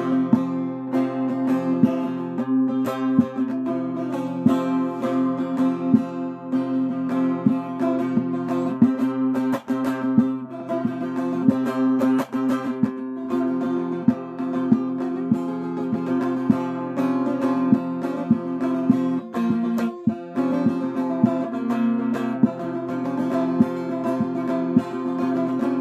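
Instrumental break in a Kurdish song: a plucked string instrument picks out a busy run of notes over steady held backing tones, with no voice.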